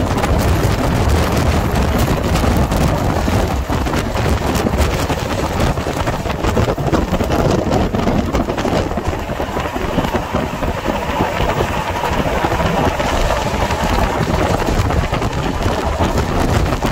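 Passenger train running at speed, heard from its open doorway: a steady rush of wind and wheel-on-rail rumble with a constant patter of short clicks.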